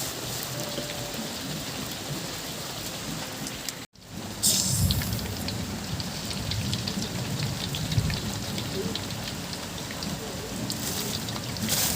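Hot cooking oil sizzling and crackling steadily. About four seconds in the sound cuts out for an instant and comes back louder.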